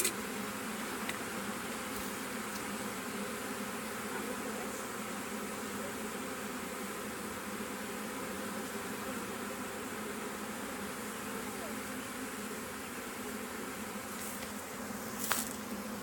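Steady, close buzzing of a honey bee swarm, many bees fanning their wings. A brief click sounds near the end.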